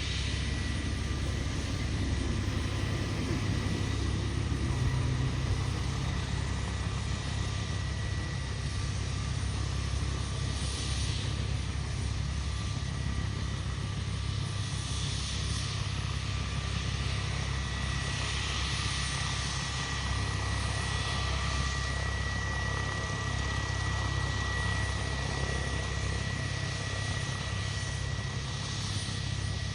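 Bell UH-1 Huey helicopter running on its turbine engine, a steady low rotor drone under a constant high whine.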